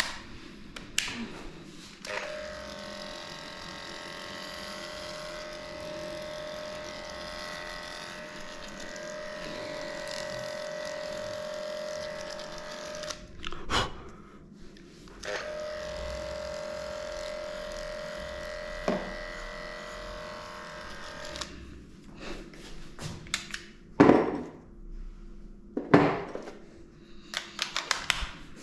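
Electric dog grooming clippers running with a steady hum while shaving the body. They stop for about two seconds in the middle, with a knock in between. In the last few seconds there are several sharp knocks and clicks.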